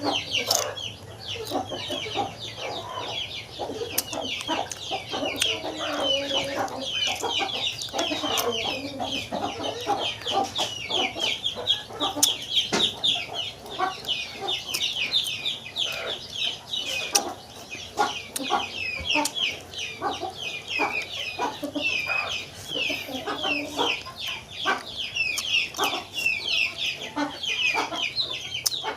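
Chickens clucking and chirping in a steady, overlapping chorus, with scattered sharp clicks.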